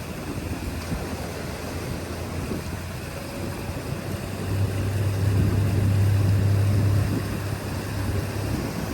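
River boat's motor running steadily with water and wind noise, the hum swelling louder for a couple of seconds midway.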